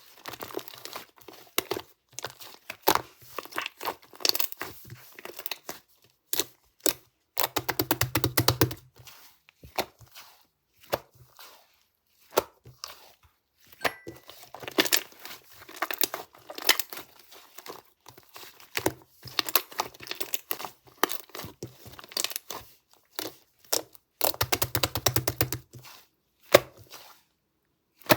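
Slime being squished, pressed and stretched by hand, giving sticky crackling and popping in irregular clusters of quick clicks. There are two longer stretches of dense crackling, about a third of the way in and again near the end.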